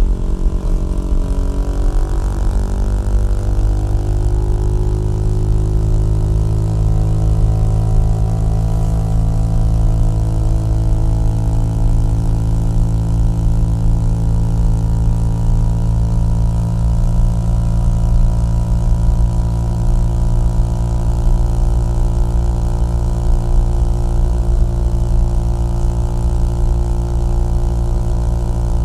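Small-displacement motorcycle engine and exhaust running at a steady cruising speed. The pitch shifts slightly over the first few seconds, then holds even.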